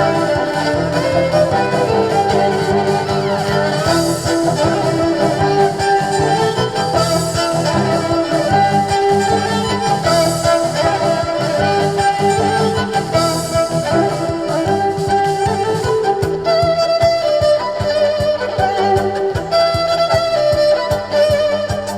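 A live band playing an instrumental with a steady bass line, a beat and a lead melody; in the second half a lead line with a wavering pitch comes forward.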